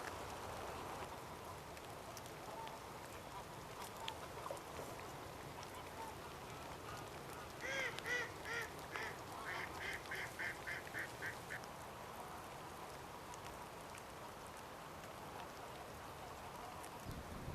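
Ducks calling: a few calls about eight seconds in, then a quick run of about ten short calls, over a steady background hiss.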